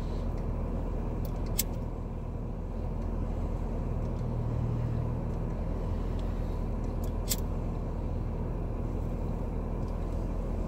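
Car engine idling steadily, heard inside the cabin, with a pipe lighter clicking in two quick pairs, about a second in and again around seven seconds in, as a pipe is lit.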